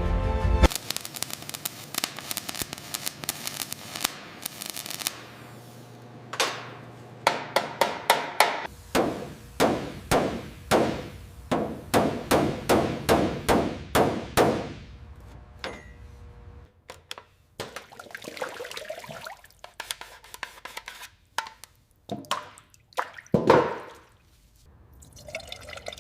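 Liquid sounds from cleaning work: a hiss of spraying, then a quick run of sharp drips or splats, about three a second, that thins out into scattered ones.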